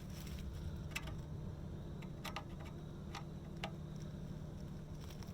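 Worm-drive hose clamps being tightened with a screwdriver around a tin-can patch on an exhaust pipe: a handful of short, sharp metallic clicks at irregular intervals, over a steady low hum.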